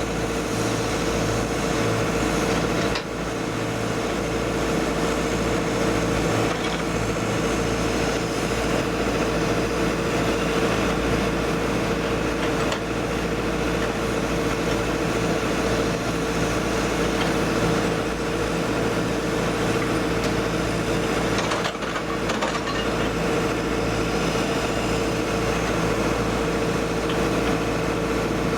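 Hyundai 140LC-7A crawler excavator running as it works: a steady engine drone with a constant high whine over it, dipping briefly twice.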